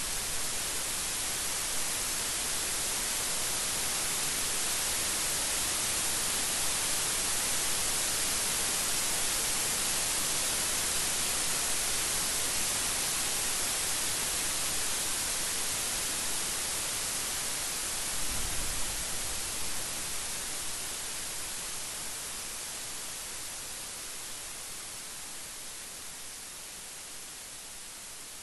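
Steady rain hissing, fading slightly over the last third, with a brief low thud about two-thirds of the way in.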